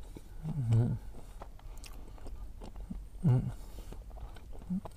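Close mouth sounds of a man biting into and chewing a chocolate-glazed pastry tube filled with sweet curd: small crackles and wet clicks, with two short voiced sounds from the eater.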